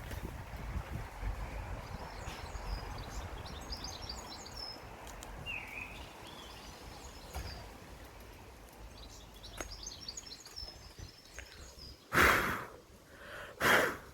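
Garden ambience: small birds chirping in short high bursts in the background over a low wind rumble. Near the end come two loud, short whooshes of noise on the microphone.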